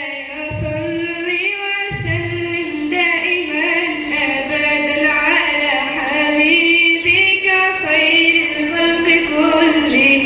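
A girl's solo voice singing a madih nasheed in praise of the Prophet, in long held notes with wavering, ornamented turns.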